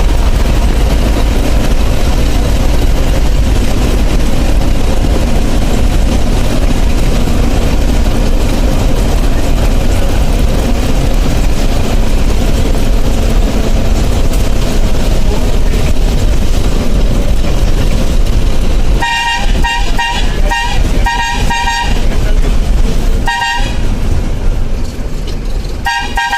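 Bus running with steady engine and road noise; about two-thirds of the way in, a two-tone horn sounds in a quick run of short blasts, then two more single blasts near the end.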